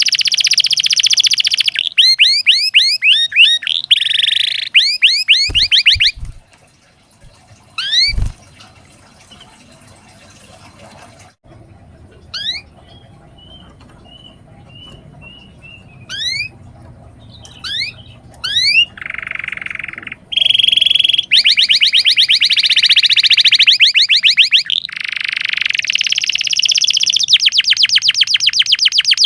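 Domestic canary singing: fast trills and strings of rising whistled sweeps, going mostly quiet for several seconds with only a few scattered notes, then coming back in with long, very rapid rolls near the end. A couple of soft low thuds can be heard in the quiet stretch.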